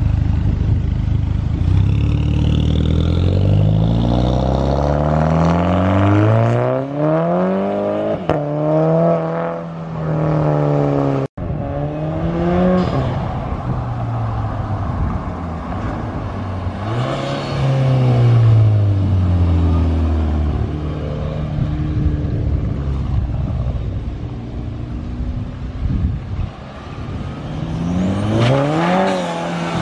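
Car engine revving, its pitch climbing and falling back several times, with an abrupt break about eleven seconds in.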